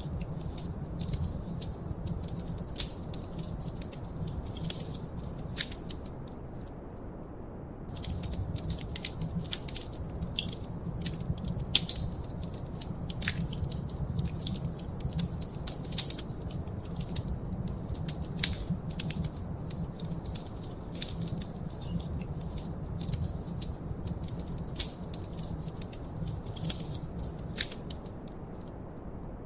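Wood fire crackling in a fireplace: a dense run of sharp pops and snaps over a low steady rumble, dropping away briefly about seven seconds in and again near the end.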